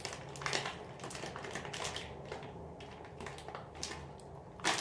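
A person chewing candy close to the microphone: irregular small clicks and wet smacks, with a sharper click near the end.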